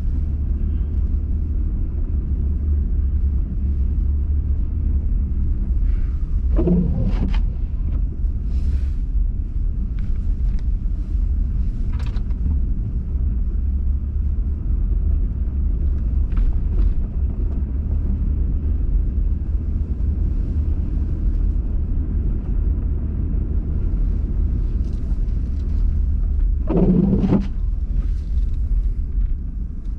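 Steady low rumble of a car's engine and road noise heard from inside the cabin while driving through snow. Two brief, louder low sounds break through, about seven seconds in and again near the end.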